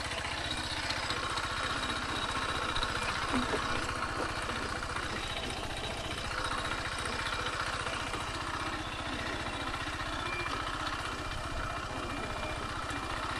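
Kymco KTR 150's single-cylinder four-stroke engine running steadily at low speed, its exhaust pulsing evenly throughout.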